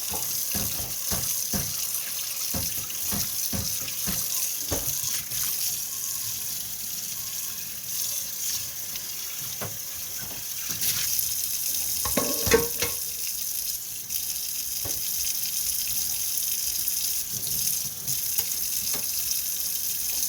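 Water running steadily from a tap into a sink, with a few knocks in the first seconds and a louder clatter about twelve seconds in.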